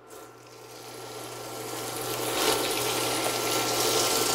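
Chicken breast pieces sizzling as they go into hot olive oil in a skillet. The sizzle builds over the first couple of seconds, then holds steady.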